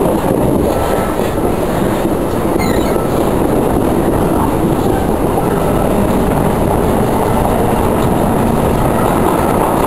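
Passenger train running along the rails, heard from on board: a steady rumble of wheels on track, with a brief faint high squeal about three seconds in.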